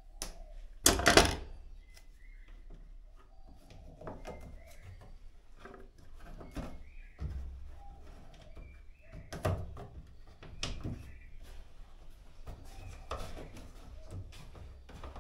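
Scattered knocks, clunks and clicks of hands working on a washing machine's hose and fittings, with a louder, longer scraping noise about a second in.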